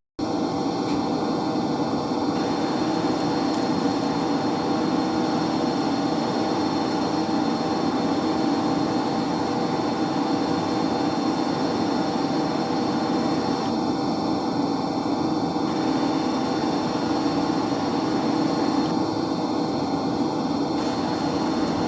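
Steady drone of running electric heating circulation pumps, a constant hum with several fixed tones over a broad machine rush, cutting out for an instant at the very start.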